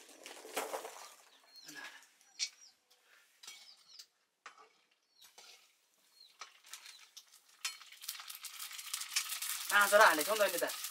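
Puris frying in hot oil in a wok, sizzling, with light scrapes and taps of a metal slotted ladle stirring them. The sizzling swells much louder about eight seconds in, and a voice comes in near the end.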